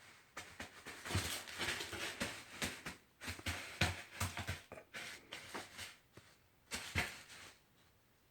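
Loose cat litter being scraped and shifted in a litter box: a run of short, irregular scratchy rustles and knocks that stops shortly before the end.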